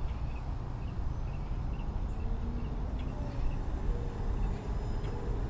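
Wind rumbling on the microphone, with the faint, wavering whine of small electric RC airplane motors (Lil Ripper foam planes) in flight. A thin, steady high tone comes in about three seconds in.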